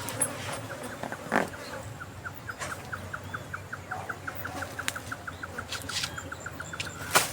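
A bird calling in a long, even series of short notes at one pitch, about six a second. Several sharp knocks fall in the middle of it, the loudest near the end.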